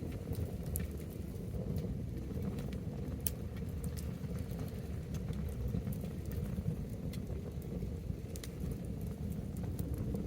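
Wood bonfire burning: scattered sharp crackles and pops over a steady low rumble.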